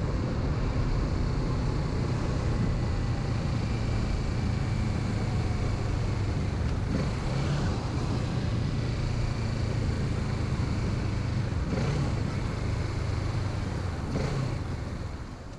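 Kawasaki Z650 parallel-twin engine running steadily on the move, with wind rush over a helmet-mounted microphone. It fades out near the end.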